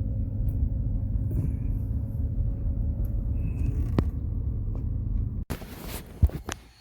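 Pickup truck engine running with a steady low rumble while the truck is moved to be parked. The rumble stops abruptly about five and a half seconds in, followed by quieter handling noise and a single sharp knock.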